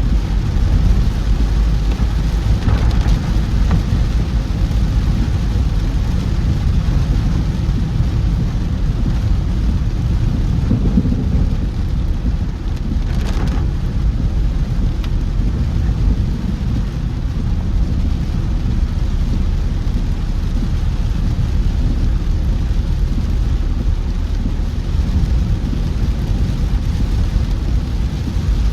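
Heavy monsoon rain falling on a moving car, with a steady deep rumble from the car driving over a wet road. A couple of brief taps stand out, the clearest about thirteen seconds in.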